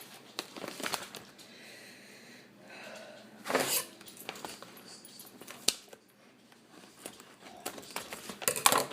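Snack pouch crinkling and rustling as it is pulled and picked at to get it open. Scattered clicks, with a louder rustle about halfway through and another near the end.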